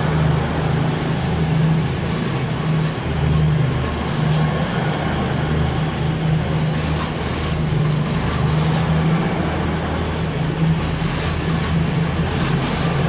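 A Class 180 Adelante diesel multiple unit's underfloor diesel engines running, a steady low throb that swells and fades about once a second.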